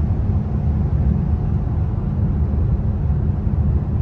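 Mercedes-AMG S63 sedan driving at a steady speed: an even low rumble of engine and road noise with no change in pace.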